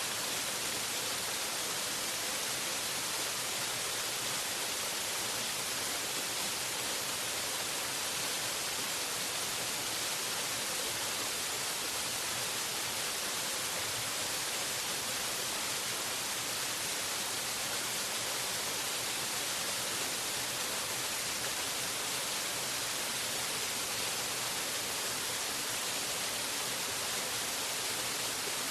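Waterfall rushing, a steady even hiss with no breaks or changes.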